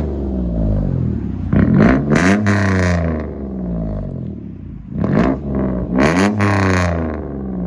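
A 2005 Mazda 6's 3.0 L V6 is revved twice through a 2-inch true dual straight-pipe exhaust that keeps its factory catalytic converters. Each rev rises quickly to a loud, raspy peak and falls back to idle, the first about a second and a half in and the second about five seconds in.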